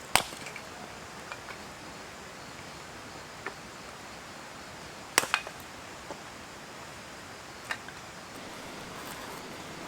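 A few sharp knocks over a steady low hiss: the loudest just after the start, two close together about five seconds in, and a smaller one near the end.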